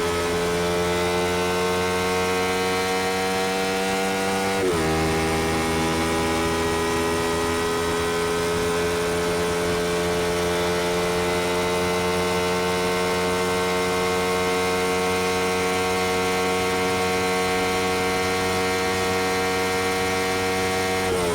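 Honda XL125V Varadero's 125cc V-twin running through a BlackWidow aftermarket exhaust while riding, its engine speed climbing slowly. The pitch drops sharply as the revs fall at a gear change about five seconds in and again near the end, then climbs again.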